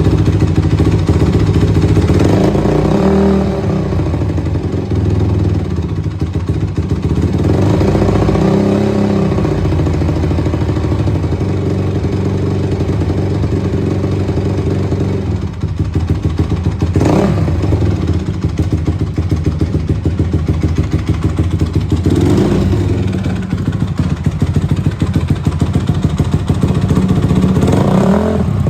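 2004 Honda CRF250R's single-cylinder four-stroke engine idling after a cold start, with the throttle blipped briefly about five times.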